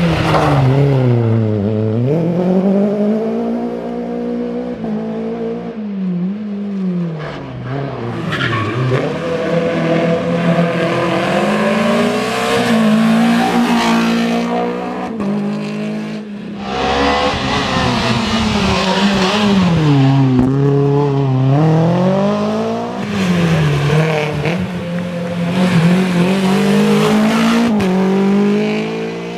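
Renault Clio Williams rally car's four-cylinder 16-valve engine at full load on a stage: the pitch climbs hard through the revs, then drops sharply on lifts and shifts, over and over, about every three to four seconds.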